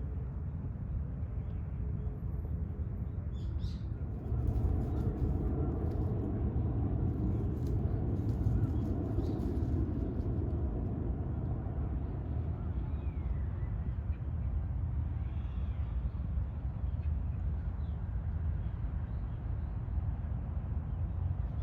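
Steady low rumble of outdoor background noise, growing a little fuller about four seconds in, with a few faint high chirps in the second half.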